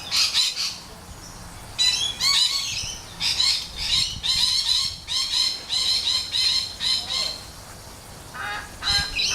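Birds squawking and chattering in rapid, high-pitched bursts of repeated notes, several bursts in a row with short gaps between them.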